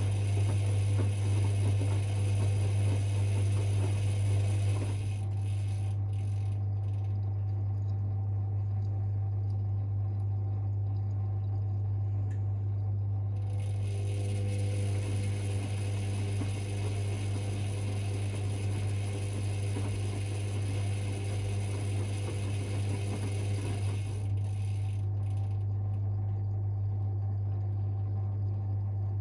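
Privileg 5020 front-loading washing machine in its wash phase: the drum motor turns the drum and the laundry tumbles, then the drum stops about five seconds in. It starts turning again around the middle and stops once more near the end, over a steady low hum. The motor sounds somewhat worn from years of laundry use.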